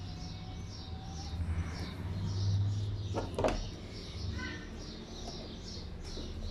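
Small birds chirping over and over in the background, over a steady low hum, with a couple of knocks about three and a half seconds in as a circuit board and its wires are handled and laid down on a bench.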